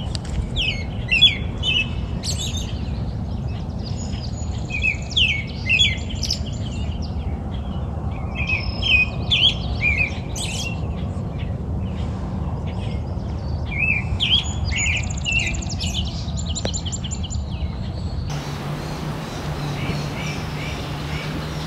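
Songbirds chirping and singing in short bursts of quick, gliding notes over a steady low rumble. Near the end the background switches to a steady low hum, with only faint chirps.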